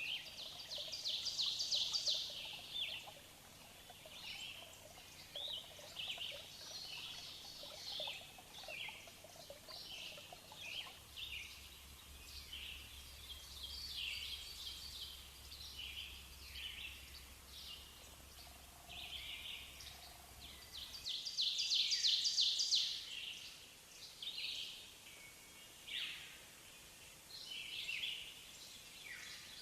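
Birds chirping and singing, many short calls overlapping, with two louder bursts of rapid trilling, one near the start and one about two-thirds of the way through, over a faint low hum.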